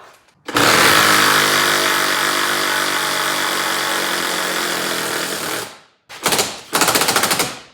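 Impact wrench on a 3/4 socket, run for about five seconds and then in two short bursts. It is backing out a bolt that holds the outboard motor to the boat.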